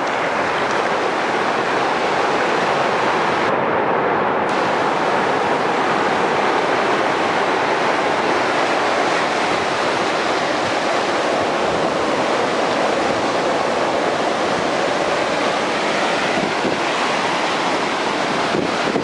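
Rough sea: surf breaking and washing in a steady, loud rush of water.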